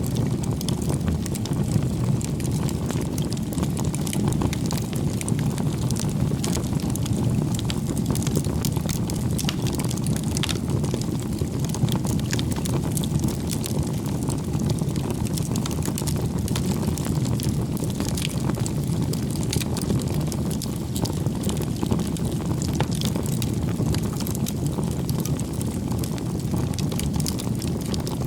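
Wood fire burning: a steady low rush with frequent small crackles and pops.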